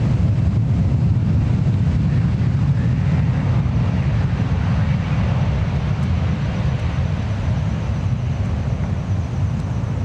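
Gulfstream G550 business jet's twin turbofan engines: a loud, steady low rumble that slowly eases off.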